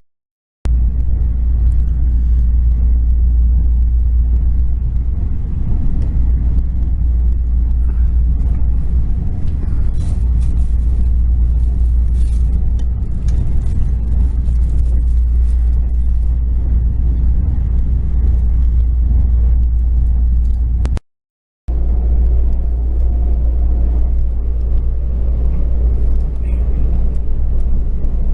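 Passenger train running, heard from inside the carriage: a steady low rumble, with two brief drops to silence, one right at the start and one about two-thirds of the way through.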